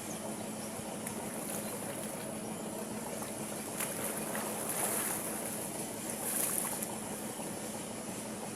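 Water splashing and swirling, with two louder splashes about four to five and six and a half seconds in, over a steady low hum and a steady high hiss.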